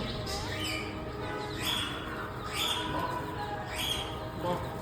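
Birds calling: about five short, high-pitched chirps spread across a few seconds over a steady background din.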